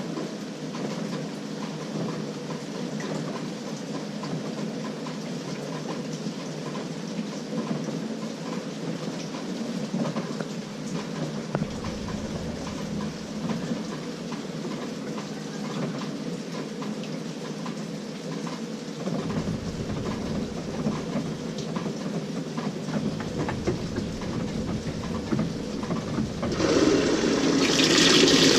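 LG 18 kg top-load washing machine running its delicate cycle, a steady mechanical churning with light irregular clicking. Near the end a much louder rushing sound sets in.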